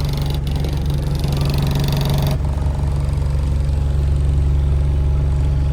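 Bus diesel engine running with a steady low drone. A higher hiss over it stops suddenly about two and a half seconds in, and the drone carries on.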